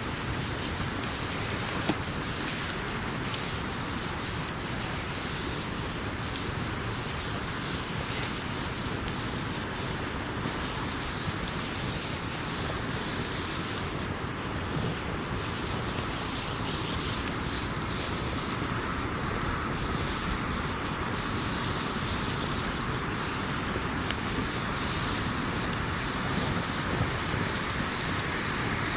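Wood campfire burning, with a steady hiss and many small crackles and pops scattered through it.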